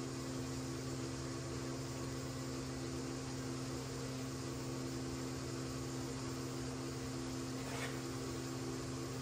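Steady machine hum over an even hiss of moving air, like a running fan or blower in the powder-coating shop. A faint brief sound comes near the end.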